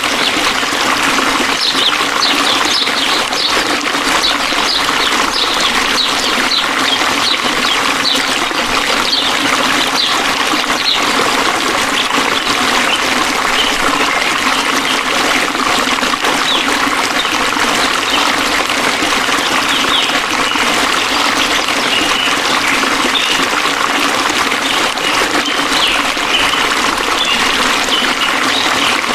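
Flowing water trickling and splashing steadily, without a break.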